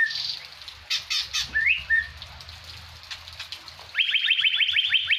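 Leafbird mimicking the Asian fairy-bluebird's call: a rising liquid whistle that ends in a short level note about a second and a half in, after a few sharp clicks, then a fast trill of about a dozen quick down-slurred notes near the end.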